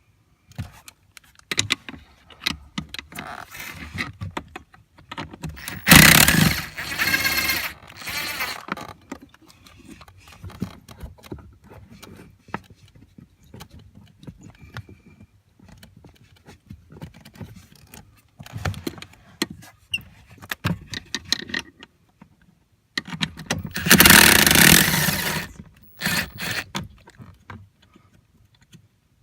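A ratchet runs in two bursts of two to three seconds, loosening the accelerator pedal's three 10mm mounting nuts. Light clicks and knocks of handling come in between.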